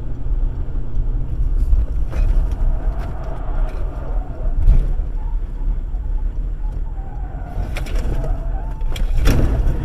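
Steady low rumble of a moving car, heard from inside the cabin through a dashcam microphone, with a wavering higher tone at times. Two sharp knocks stand out, one about halfway through and one near the end.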